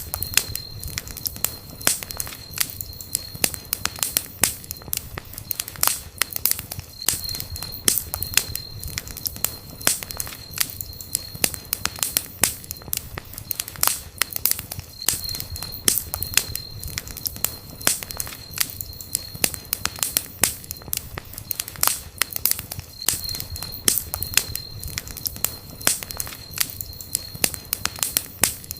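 Campfire burning, wood crackling with many irregular sharp pops over a low steady rumble of flame. A thin, high whistle comes and goes several times.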